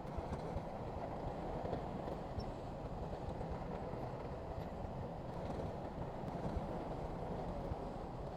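Diesel engine of heavy earthmoving machinery running steadily, a continuous low rumble with faint scattered clicks.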